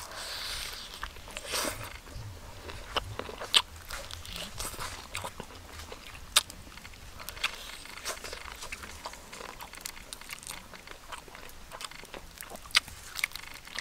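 A person biting and chewing crisp-skinned cooked sea fish: irregular sharp crunches and clicks, a few of them much louder than the rest.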